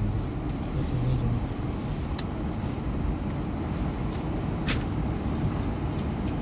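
Steady low rumble of a truck driving, heard from inside the cab, with a couple of faint clicks.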